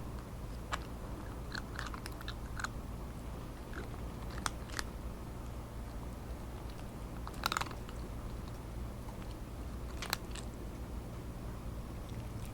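A cat crunching dry kibble close to the microphone, in scattered bites with pauses between, over a steady low hum.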